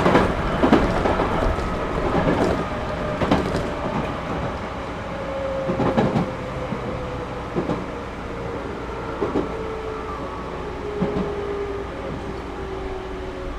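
Series 211-5000 electric train heard from inside the car, running with a steady rumble while the wheels knock over rail joints. The knocks come further apart and a motor hum slowly falls in pitch from about a third of the way in: the train is slowing down.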